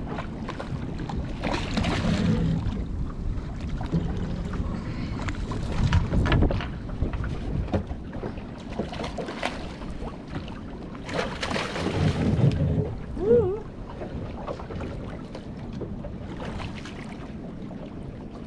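Wind buffeting the microphone over water sloshing against a small boat's hull, with a few knocks and splashes.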